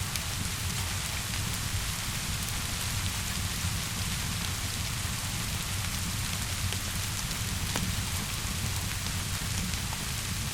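Steady rainfall hissing evenly, with scattered sharp crackles from a wood fire and a low rumble underneath.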